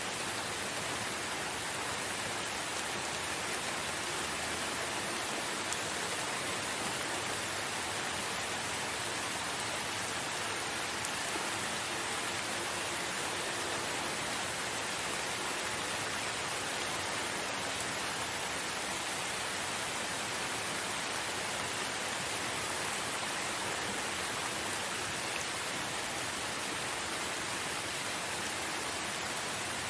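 Steady rain falling, an even, unbroken hiss of rain with no thunder.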